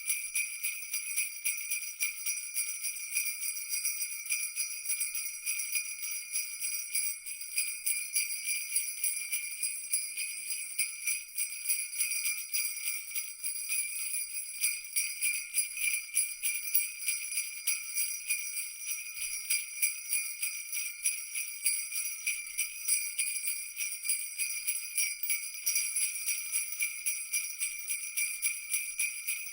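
Jingle bells shaken continuously in a dense, steady jangle with no pauses, all bright and high-pitched.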